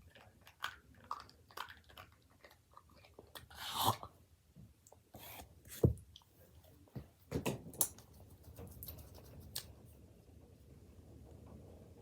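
Hands squishing and kneading play dough: irregular soft squelches and small clicks, with louder ones about four and six seconds in.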